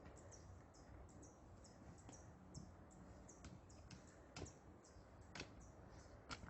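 Near silence, with faint high ticks repeating a few times a second and a soft knock about once a second.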